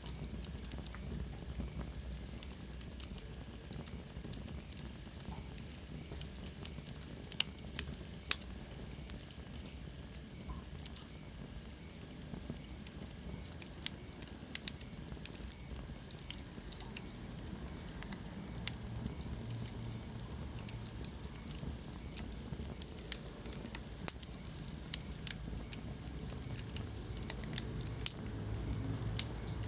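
Wood fire burning in a fireplace: crackling, with frequent sharp pops scattered irregularly over a steady low rumble. A faint high whistle falls in pitch about seven to eleven seconds in.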